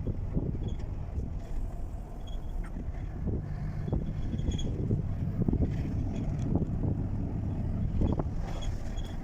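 Truck on the move: a steady low rumble with frequent irregular knocks and rattles over it.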